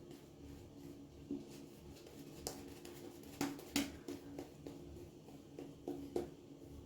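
Faint, irregular scratching and clicking of a wet shave in progress, a few sharper clicks about two and a half and three and a half seconds in, over a steady low hum.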